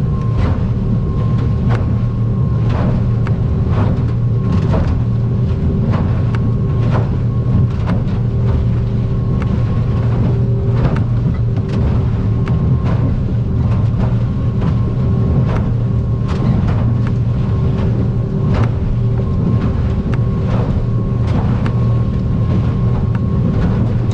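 Outboard-powered aluminium boat running at speed through the swells: a steady engine drone with a constant whine, broken every half second to second by sharp slaps and thuds of the hull hitting the waves.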